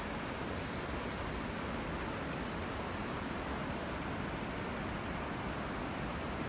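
Steady roar of the Iguazu Falls: heavy water pouring down, an even rushing noise with no rhythm or breaks.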